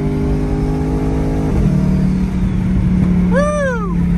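Twin-turbo 2020 Ford Mustang Shelby GT500's V8 running steadily on the move, its engine note dropping in pitch about a second and a half in. Near the end a short tone rises and falls over about half a second.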